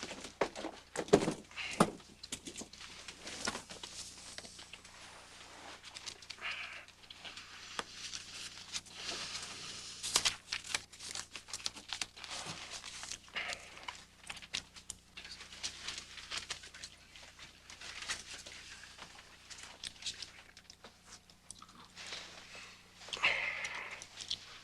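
Intermittent rustling and crinkling, with scattered small clicks and knocks and a few louder brief sounds near the start and near the end.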